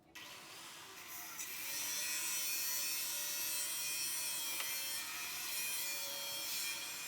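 Steady hissing, rasping noise of a tool working on the build, building up over the first two seconds and then holding even.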